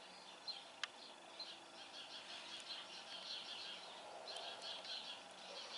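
Faint background birdsong: small birds chirping and twittering on and off throughout, with a sharp click a little under a second in.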